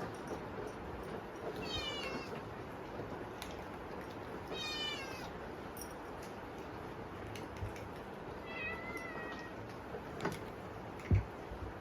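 Munchkin kittens meowing for food: three high-pitched mews with falling pitch, about two, four and a half and nine seconds in, over a steady hiss of heavy typhoon rain. A short low thump near the end.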